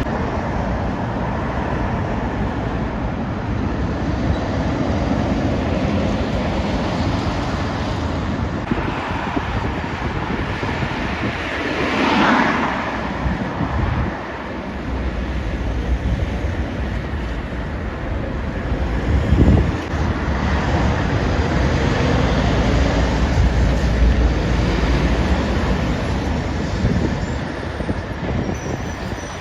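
Heavy trucks and other traffic driving past on a busy road: continuous tyre and engine noise with a deep engine drone. One vehicle swells loudly as it passes about twelve seconds in.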